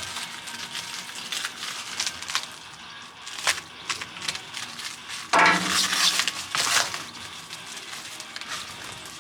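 Metal parts being handled, with scattered clinks and light scrapes and one louder ringing metallic scrape about five and a half seconds in.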